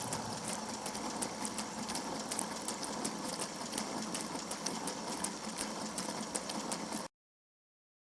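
Water from a GE dishwasher's spinning spray arm pelting a camera inside the running dishwasher: a steady hiss of spray with rapid, uneven ticks of jets and droplets striking. It cuts off abruptly about seven seconds in.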